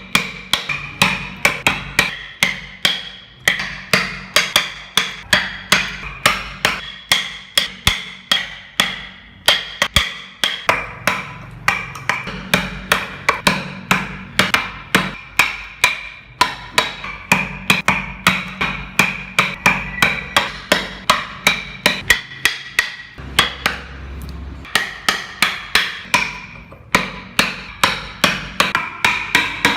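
A mallet striking a wood-carving chisel in a steady rhythm of about two to three blows a second, each blow a sharp knock with a brief ring, pausing briefly about three-quarters of the way through.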